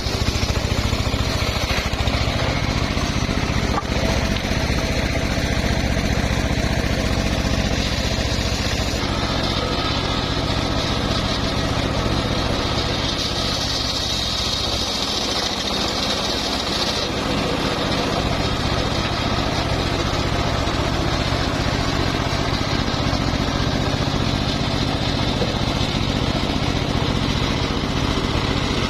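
Homemade circular sawmill and its engine running steadily while sawing mahogany, with a higher-pitched whine for a few seconds about halfway through.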